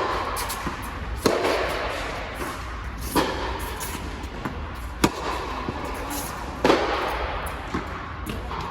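Tennis ball struck back and forth in a rally: a sharp pop off the racquet strings about every two seconds, five hits in all, over a steady low rumble.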